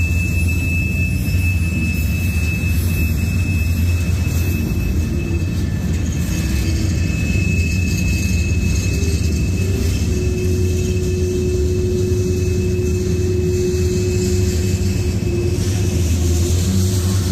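Freight train of covered hopper cars rolling past, a steady heavy rumble of steel wheels on rail. A thin high steady whine rides over it until near the end, and a lower steady tone joins about halfway through.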